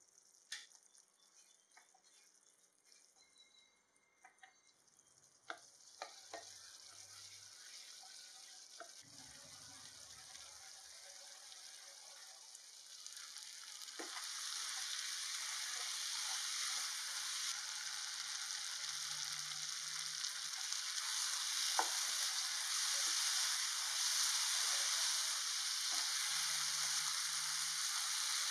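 Mutton frying in oil in a nonstick kadai, a steady sizzle with occasional light taps of a spatula on the pan. Quiet at first, the sizzle grows much louder about halfway through, once the gravy has cooked down and the meat is frying dry.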